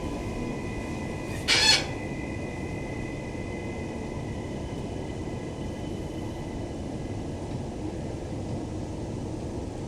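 Interior running noise of a Queensland Rail NGR electric multiple unit slowing into a station: a steady rumble with faint steady high tones that fade out past the middle, and one short, sharp burst of noise about one and a half seconds in.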